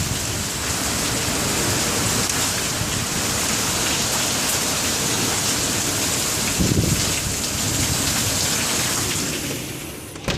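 Heavy rain and strong winds of a severe thunderstorm: a loud, steady roar of noise, with a short low rumble about seven seconds in. It eases off near the end.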